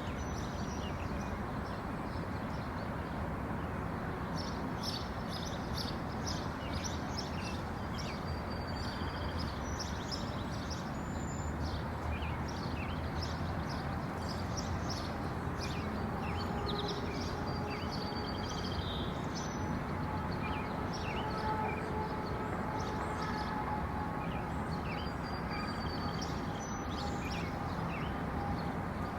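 Outdoor ambience: many small birds chirping over a steady low rumble like distant traffic.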